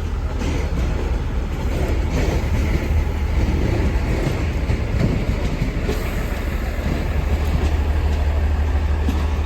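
Running noise of a moving passenger train: a steady low rumble of wheels on rails with faint scattered clicks.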